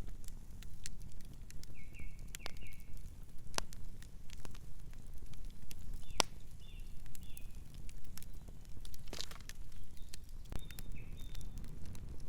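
Wood fire crackling, with frequent sharp pops and snaps over a steady low rumble. A few short bird chirps come in about two seconds in, again in the middle and near the end.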